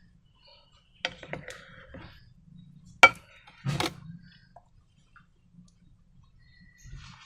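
Slime being squished and popped: a few wet clicks and pops, with one sharp, loud pop about three seconds in and another burst just before four seconds.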